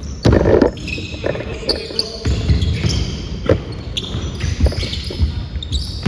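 Basketball game play on a court: the ball bouncing in irregular low thumps, with short high squeaks scattered through.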